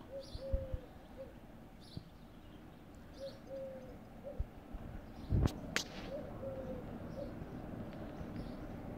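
A dove cooing a three-note phrase (short, long and falling, short), repeated three times about three seconds apart, with small birds chirping faintly. Two sharp clicks come about halfway through.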